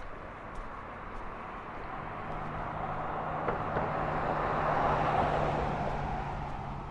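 A motor vehicle passing by: its noise grows louder to a peak about five seconds in, then fades, with a low steady engine hum underneath.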